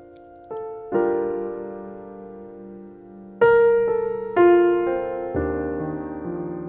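Solo piano playing a slow, gentle piece: single notes and chords struck every second or so, each ringing and fading.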